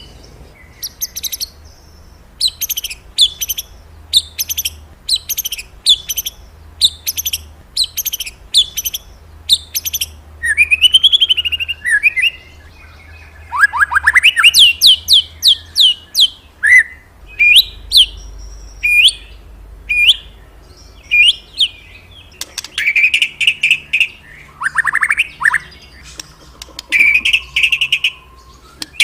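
White-rumped shama (murai batu) singing loudly. First comes a long run of short, high, quick notes about twice a second, then varied whistled phrases with rising and falling sweeps.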